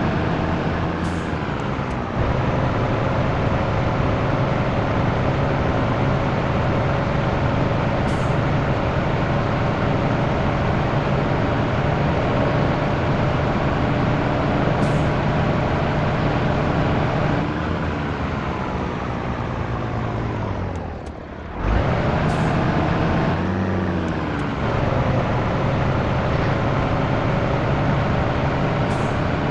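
Scania T113 truck's straight-six diesel engine running on the road, heard from the cab. Its pitch steps with gear changes about two seconds in and again near the end, and it sinks and slows for a few seconds about two-thirds through before pulling again.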